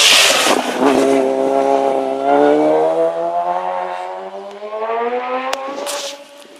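Racing motorcycle engine passing close at speed: a loud, high engine note that drops in pitch as it goes by, then holds steady and fades as the bike pulls away. A few sharp clicks near the end.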